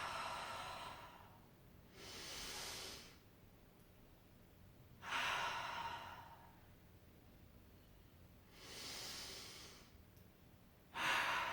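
A woman breathing slowly and deeply, in through the nose and out through the mouth: long exhales at the start, about five seconds in and near the end, with quieter inhales between them.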